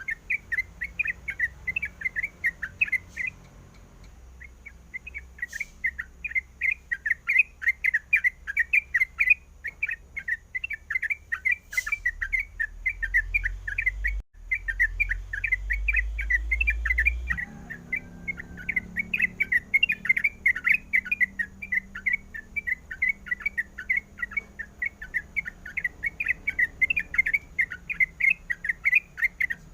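Yellow-vented bulbul (trucukan) singing a fast, continuous run of short bubbly chirping notes, several a second, with a short pause a few seconds in.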